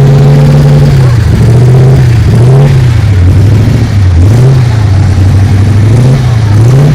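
A vehicle engine being revved: it holds a steady note for about a second, then dips and climbs again about once a second in a string of throttle blips, very loud.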